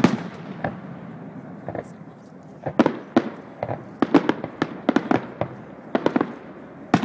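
Fireworks display: aerial shells bursting with sharp bangs, one loud bang at the start and then a quick irregular run of many bangs from about three seconds in.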